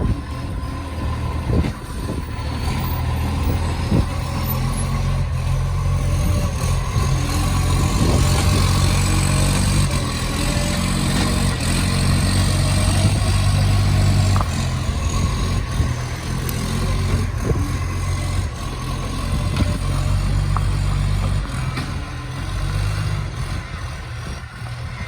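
Garbage truck's diesel engine running with a massive exhaust leak, a loud roaring drone that swells about a third of the way in and eases off after the middle. A few sharp knocks are heard along the way.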